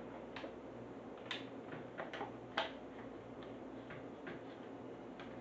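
Irregular small clicks and ticks of hands working at plastic toy-car packaging, about ten over a few seconds, two of them sharper than the rest.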